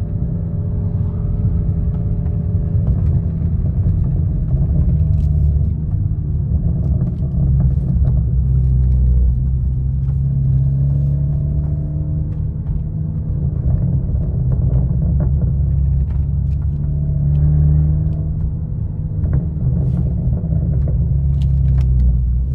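Turbocharged 2.0-litre four-cylinder engine of a big-turbo Genesis G70 2.0T running while driving, a steady low rumble whose pitch rises and falls gently with the throttle.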